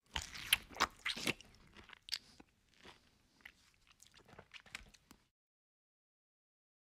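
Close-miked eating: a mouthful of rice and curry eaten by hand, with several sharp crunches in the first second and a half, then softer wet chewing clicks. The sound cuts off dead about five seconds in.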